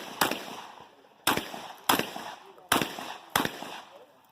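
Rock Island Armory VR-80 12-gauge semi-automatic shotgun fired five times in a quick string, roughly one shot every half second to second, each shot with a short echoing tail.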